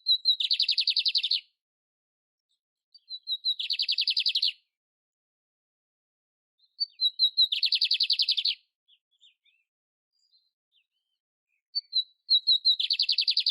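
Canary singing the same short phrase four times, about every four seconds: a few quick high notes, then a fast buzzy trill lasting about a second.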